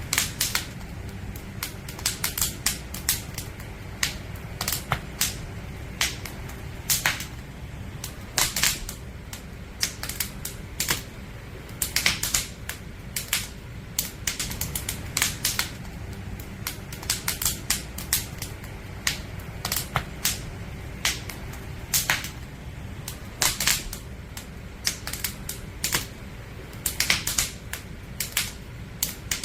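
Firewood burning in a campfire, crackling and popping in irregular sharp snaps, several a second in bunches, over a low steady rumble of the fire.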